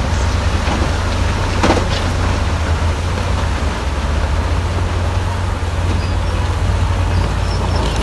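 Heavy diesel earthmoving machinery running steadily with a deep engine rumble, and a single metallic clank about a second and a half in.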